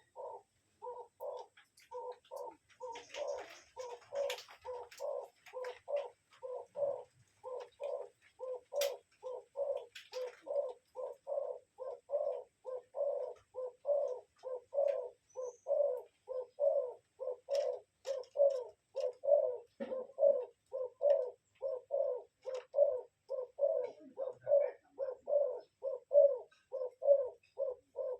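A bird giving low, evenly repeated calls, about two a second, steadily growing louder.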